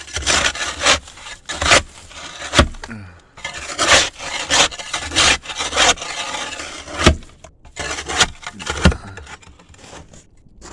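Ice being scraped up off a deck in repeated, uneven scraping strokes, with three sharp knocks among them.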